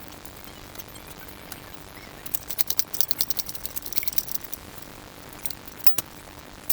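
Light metallic clicking and rattling of small metal objects: a quick run of clicks a couple of seconds in, then two sharp clicks near the end.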